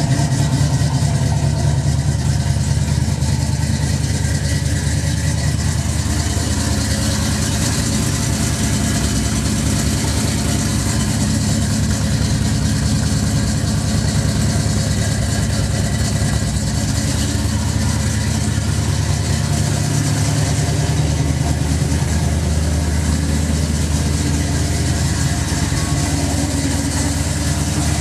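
1971 Chevrolet Nova's engine idling steadily, warming up after a cold start.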